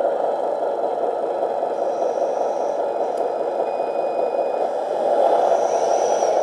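1/18 scale Capo Tatra RC truck running as it climbs slowly with all differentials locked: a steady mechanical running noise that gets louder about five seconds in.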